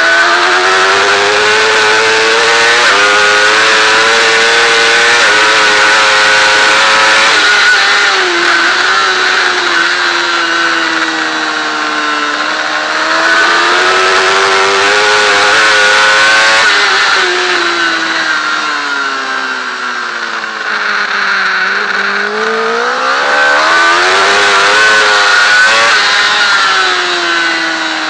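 Honda CBR1000RR superbike's inline-four engine at racing revs. The pitch climbs as it accelerates and drops as the revs come down, over and over; the deepest drop comes about 21 seconds in, before the engine pulls hard again.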